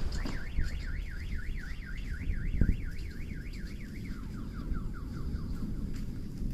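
Car alarm warbling up and down about four times a second, then switching to a run of quick falling chirps that fade out about two-thirds of the way through, over a low rumble with a thud about two and a half seconds in. The alarm was set off by the shock wave of a meteor's airburst.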